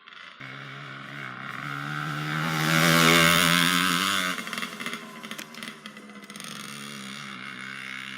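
A small four-wheeler (ATV) engine running and revving as it comes close. It is loudest about three seconds in, then drops back suddenly to a lower, steady running.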